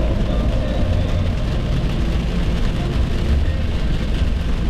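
Steady road noise of a car driving at highway speed, heard from inside the cabin: a constant deep rumble of tyres and engine with a hiss of air and road.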